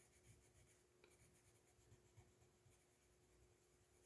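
Faint scratching of a Crayola Colors of the World colored pencil shading on paper, barely above near silence.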